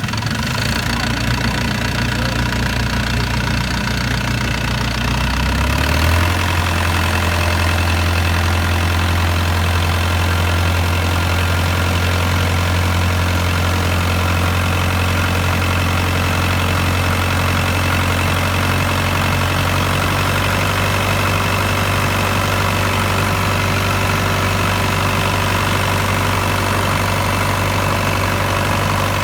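Boat engine running steadily, then speeding up about six seconds in and holding at the higher speed as the boat gets under way.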